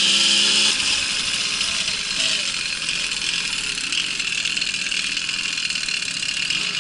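A small 50 cc two-stroke Babetta moped engine holds a steady note, then cuts out less than a second in, leaving a steady hiss.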